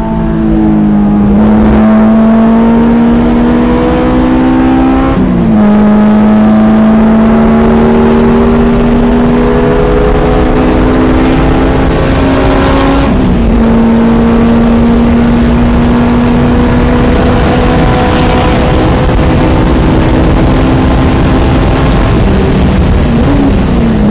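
Car engine at full throttle on a race track, heard from inside the car, its pitch climbing steadily and dropping sharply at upshifts about five and thirteen seconds in. Wind hiss grows as speed rises, and the revs dip and wobble near the end.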